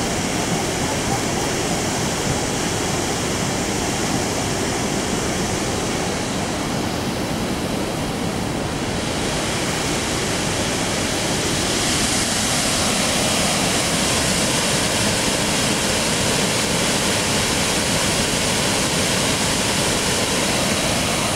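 Harajiri Falls, a broad curtain waterfall, pouring steadily as a constant loud rush of falling water. The sound grows a little louder and brighter about halfway through.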